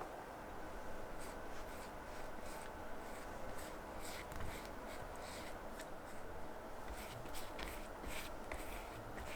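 Irregular soft scratching strokes, a couple a second, over a low steady hum.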